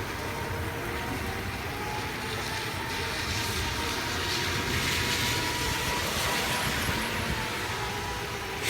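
Steady rain with a vehicle passing on the wet road, its tyre hiss swelling up in the middle and fading again. A faint steady wail of a distant outdoor tornado warning siren runs underneath, and a sharp click comes right at the end.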